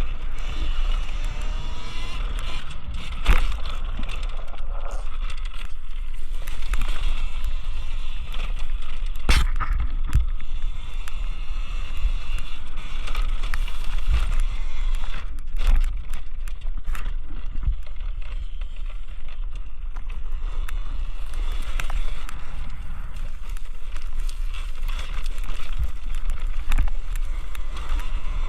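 Electric dirt bike being ridden over a dirt track: wind buffeting the microphone, the motor's whine rising and falling, and a few sharp knocks, the loudest a little after three seconds and near nine seconds.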